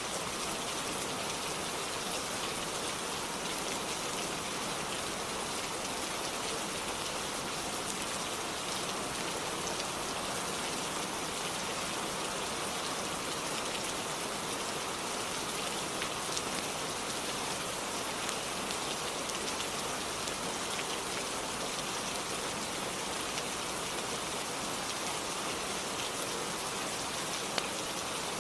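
Steady rain falling on a roof: an even, dense hiss with scattered drop ticks and a couple of slightly sharper ticks.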